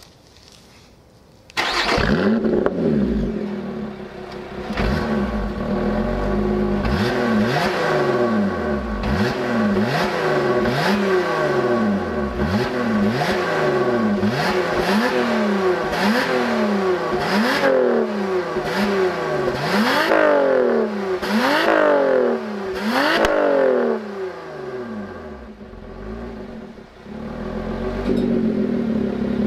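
Lotus Evora 400's supercharged 3.5-litre V6 starting up about a second and a half in and settling to idle, then blipped over and over, about one short rev a second, with a few higher revs later on before it drops back to idle.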